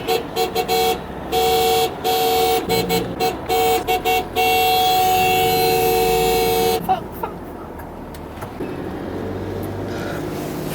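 Two-tone vehicle horn honking in a quick run of short toots, then one long blast of about two and a half seconds, with steady road and engine noise after it.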